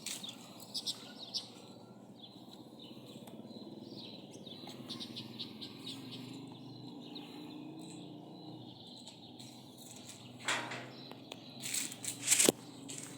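Birds chirping in quick short high notes over a steady low background hum, the chirps thickest in the first second or so. Near the end come a few louder sudden noises, ending with a sharp knock.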